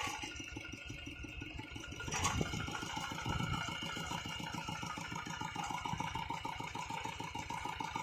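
Single-cylinder diesel engine of a hand tractor running steadily with an even, rapid chugging. A sharp click comes about two seconds in, after which the engine runs a little louder.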